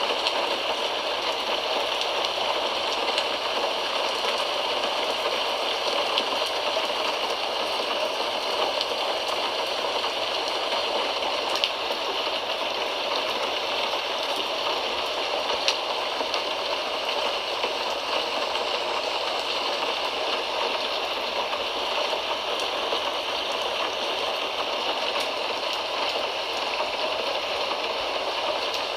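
Steady rain falling, an even hiss with fine patter and an occasional slightly louder drop.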